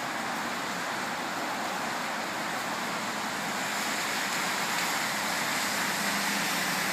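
Heavy rain falling, a steady rushing hiss that grows slightly louder about four seconds in.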